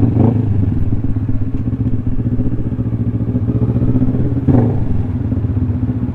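Kawasaki Ninja 400 parallel-twin engine idling steadily through a newly fitted SC Project exhaust, with a brief louder moment about four and a half seconds in.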